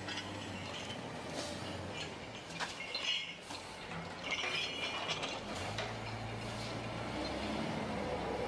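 A machine running with a steady low hum, with bursts of metallic clinking and rattling about a second and a half in and again near the middle.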